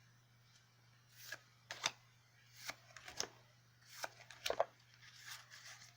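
Yu-Gi-Oh! trading cards being handled and slid against one another, a run of soft brushing strokes starting about a second in, over a faint steady low hum.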